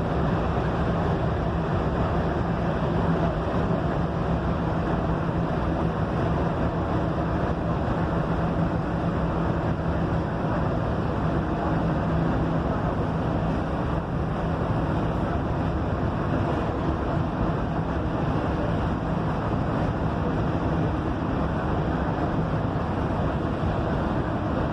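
Cabin noise of a Mercedes-Benz OF-1721 bus under way: its front-mounted diesel engine runs at a steady low hum, mixed with road and wind noise.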